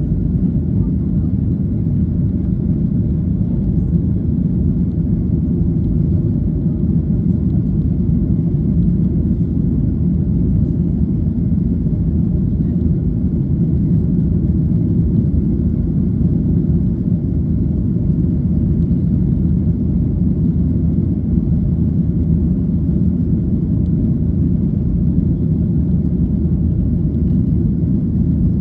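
Cabin noise inside a Ryanair Boeing 737 jet airliner: a steady low rumble of the engines and airflow with faint steady tones above it.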